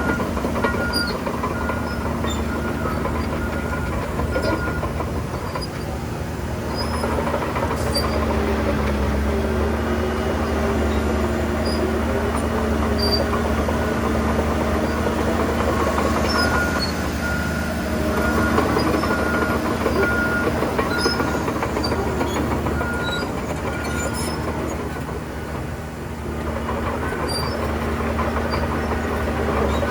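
Crawler bulldozer's diesel engine running steadily with metallic track clanking and squeaks. A reversing alarm beeps about once a second at the start and again midway.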